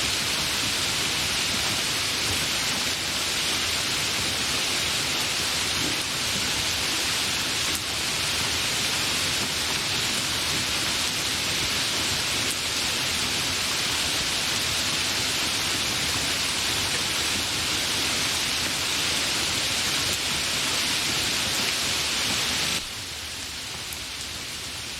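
Steady, fairly heavy rain, a dense even hiss with no thunder. About 23 seconds in it drops suddenly to a quieter, thinner hiss, as at an edit in the recording.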